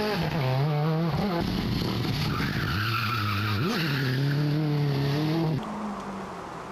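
Rally car engine running hard on a stage, its note dropping and jumping back up with gear changes, over tyre and skidding noise. About five and a half seconds in, the sound cuts abruptly to a quieter car with a steadier engine note.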